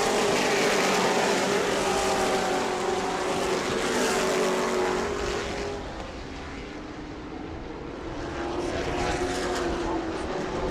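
Race trucks' engines passing around a short oval, their pitch sliding down as they go by. The sound fades about six seconds in, then builds again as more trucks approach.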